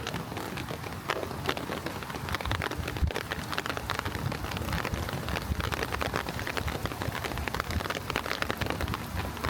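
Steady rain falling, with many close, sharp drop hits on hard surfaces over a constant hiss of rainfall.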